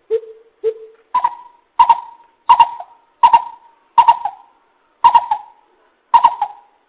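Coucal giving its decoy call: a series of about ten deep hoots at roughly one and a half a second, the first two lower-pitched and the rest a step higher.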